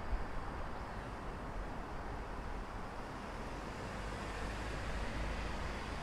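City ambience: a steady low rumble of road traffic, swelling slightly over the second half as a vehicle draws nearer.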